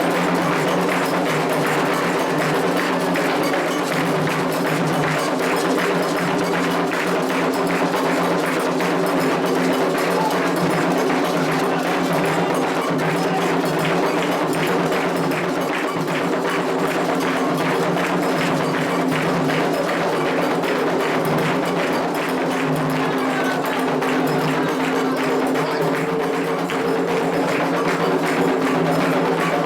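Candomblé ritual music: atabaque hand drums and a struck bell keep up a dense, fast, steady rhythm, over sustained pitched voices singing.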